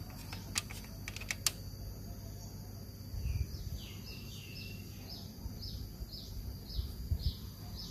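A few sharp clicks in the first second and a half, then a bird repeating a short, high, falling chirp about twice a second.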